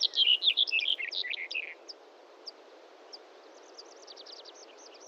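Small songbird singing: a rapid jumble of high chirps for the first couple of seconds, then a few scattered single notes and a quick run of short falling notes near the end, over a steady outdoor hiss.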